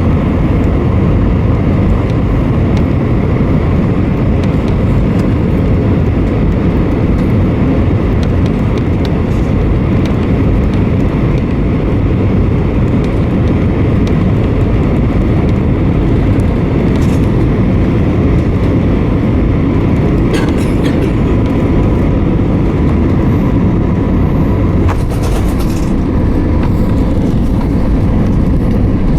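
Steady jet engine and airflow rumble inside an Airbus A320's passenger cabin, with a faint steady whine above it.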